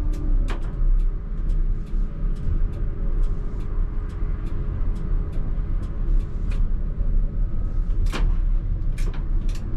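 ČKD DS T3R (Tatra) tram running, heard from the driver's cab: a steady low rumble with a stream of sharp clicks and a few louder knocks.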